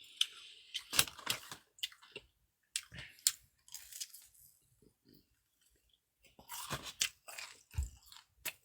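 Close-miked chewing and biting of food: a run of short, moist crunches and mouth clicks, with a pause of about two seconds midway.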